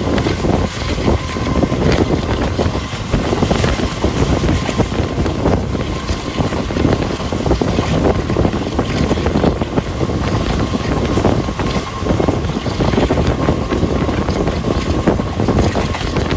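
Wind buffeting the microphone over the steady rumble of a moving passenger train, with no break in the noise.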